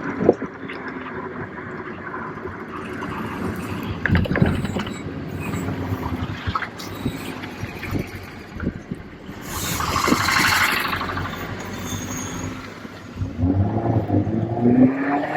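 Abarth Punto's 1.4-litre turbocharged four-cylinder running through a PowerMotive aftermarket exhaust while driving. Near the end the revs rise and fall. About ten seconds in there is a loud hissing rush lasting a second or so.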